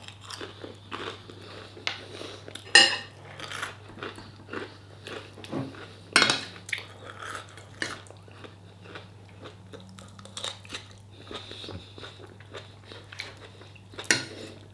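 Close-up biting and chewing of crisp food, with repeated crunches, the loudest about three and six seconds in and again near the end, and light clinks of a fork against the bowl.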